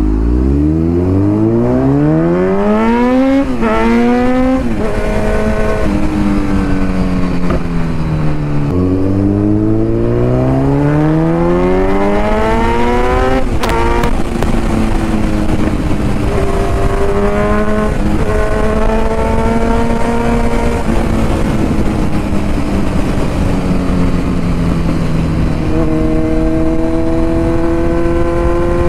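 Kawasaki Z900's 948 cc inline-four through an Akrapovic titanium full-system exhaust, accelerating through the gears. The exhaust note climbs steeply, drops sharply at each gear change and climbs again several times, holding steady or easing off between pulls, with a long climb again near the end.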